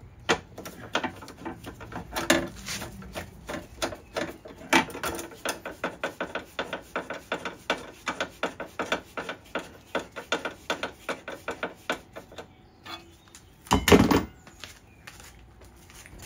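Rapid series of clicks from hand tools being worked on car parts, with one loud knock near the end.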